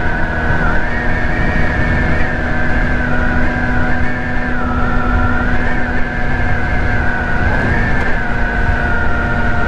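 Ice Bear Hawkeye 150cc scooter's single-cylinder four-stroke GY6 engine running under way, heard over a steady low rumble of wind on the microphone. A high whine wavers gently up and down in pitch as the speed changes.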